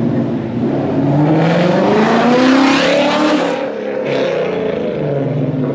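A car's engine revving hard, loud, its pitch climbing for about two seconds and then falling away, with a rush of noise over the rev that cuts off sharply partway through, as the car is driven sideways.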